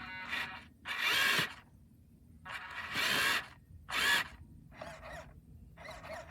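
Electric motors of a radio-controlled dirt-hauling truck whirring in a series of short bursts, the loudest about a second in, around three seconds and about four seconds in, with fainter ones near the end.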